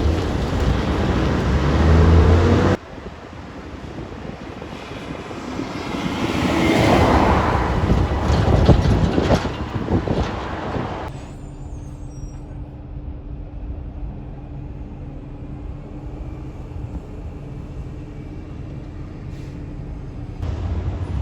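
Street traffic with a heavy truck driving past, its engine and road noise swelling and then fading in the first half. Afterwards the noise drops to a lower steady engine hum.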